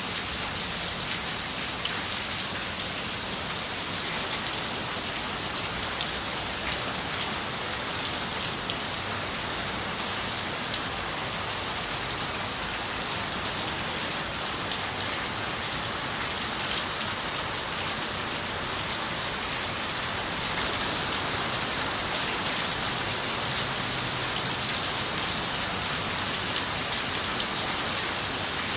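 Steady rain on a window: an even hiss of rainfall with scattered sharp drop taps, getting slightly louder about two-thirds of the way through.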